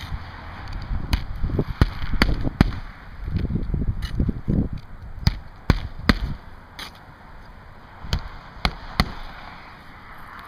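Hammer driving roofing nails into asphalt shingles: sharp strikes in quick runs of two or three, with low wind rumble on the microphone between them.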